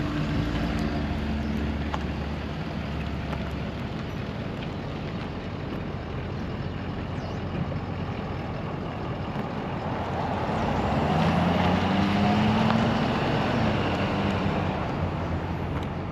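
Pickup truck driving slowly, a steady mix of engine and road noise, with the engine note climbing as it pulls away about eleven seconds in.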